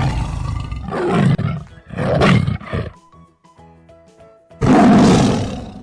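Tiger roaring several times in a row over light background music. The last roar, near the end, is long and loud and trails off.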